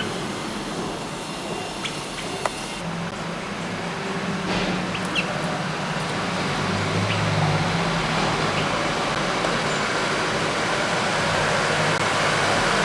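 Motor vehicle noise: an engine hum and road rush building up slowly. A few short, sharp clicks or chips are scattered through it.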